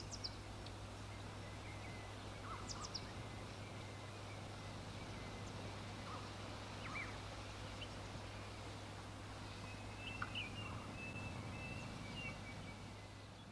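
Outdoor nature ambience: scattered short bird chirps and trills over a steady hiss and low hum, beginning to fade out near the end.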